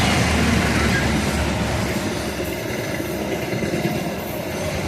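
A train passing at speed: a steady rush of wheels and carriages on the rails, with a low diesel locomotive rumble that fades after about two seconds.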